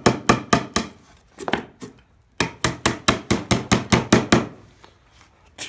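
Hammer striking wood in quick blows, about four or five a second: a few at the start, two lighter taps, then a run of about ten strikes before it stops.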